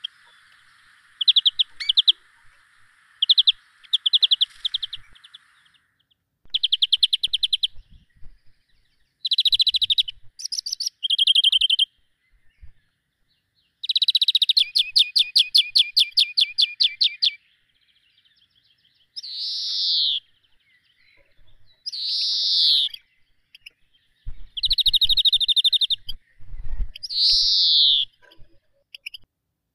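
Small birds singing and calling: repeated bursts of fast, high trilled chirps, then several loud, short calls that fall in pitch in the second half.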